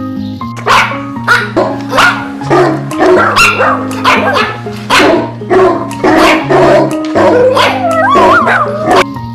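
A dog barking over and over, about two barks a second, over background music.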